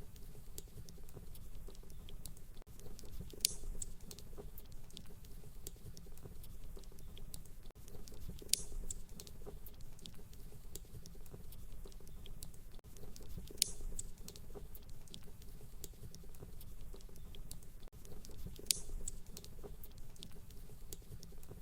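Fireplace fire crackling: a steady low rumble of flame with constant small ticks and a louder pop about every five seconds.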